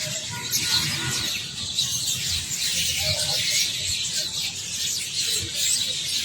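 A large flock of birds calling together: a dense, unbroken chatter of many short, high-pitched chirps and squeaks, over a low steady rumble.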